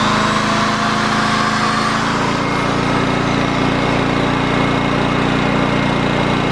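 Honda EX1000 portable generator engine running steadily after its repair.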